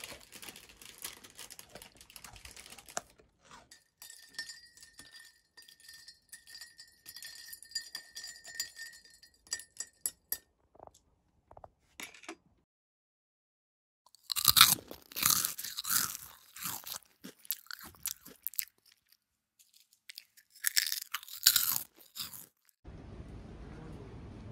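Close crunching and chewing of crisp-crusted bread and scone warmed in an air fryer, in two runs of bites, the second shorter and near the end.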